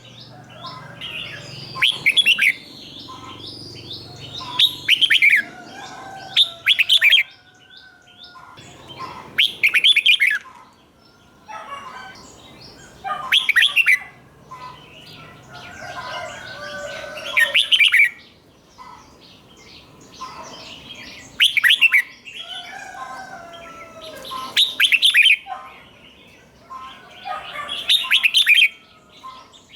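Red-whiskered bulbul singing short, bright song phrases about every three to four seconds, with quieter chirps and twitters between the phrases.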